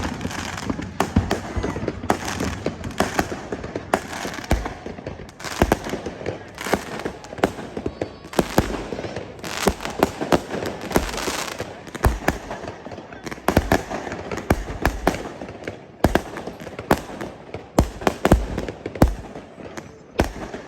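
Fireworks display going off: many sharp bangs and crackles in quick, irregular succession, with no pause.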